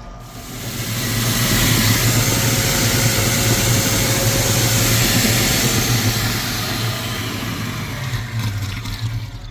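Water rushing out under pressure from a burst groundwater main pipe, a loud even rush over a steady pump hum. The rush builds over the first couple of seconds, holds, and eases near the end.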